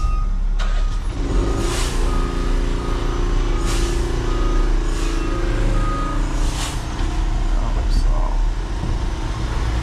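Concrete mixer truck's diesel engine running as the truck is moved, its reversing alarm beeping about twice a second for the first six seconds or so, with a few short hisses of air.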